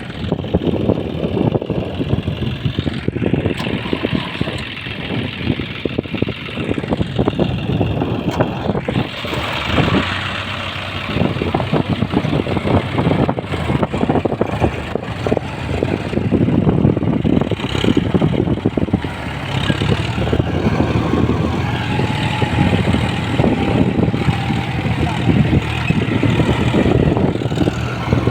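Mahindra tractor's diesel engine running hard while the tractor is stuck in mud, its loudness rising and falling throughout.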